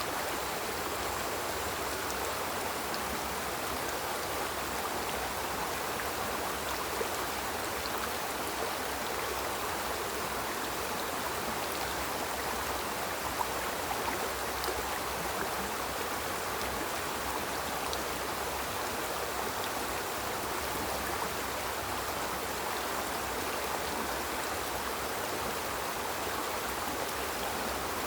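Small river flowing steadily over rocks, a continuous rushing babble with small splashes.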